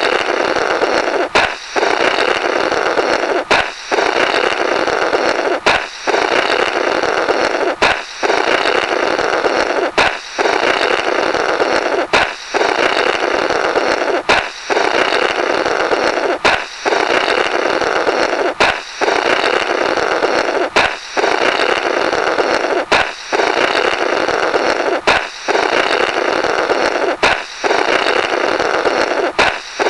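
Looped cartoon 'blorrrt' sound effect: a balloon pops sharply, then a raspy blowing through the burst balloon's remnants runs on for about two seconds. It repeats about every two seconds, some fourteen times.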